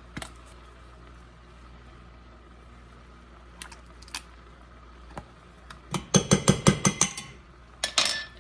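Metal kitchen utensil clinking rapidly against cookware: about ten sharp, ringing clinks in just over a second starting about six seconds in, with a few light clicks before and another clink near the end.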